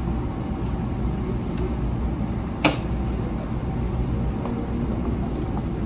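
700 series Shinkansen running noise: a steady low rumble, with one sharp click about halfway through.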